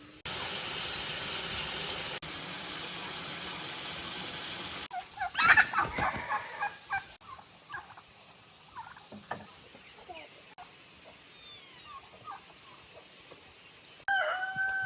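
Turkey gobbling in a loud, rapid burst about five seconds in, after a steady hiss. Faint short chirps follow, and a brief pitched call comes near the end.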